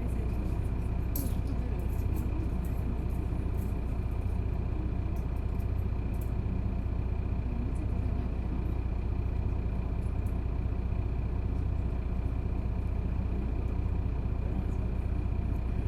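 Isuzu Erga city bus heard from inside the cabin, its straight-six turbo-diesel running at a steady, unchanging speed with a deep hum, a faint steady high whine and a few light rattles.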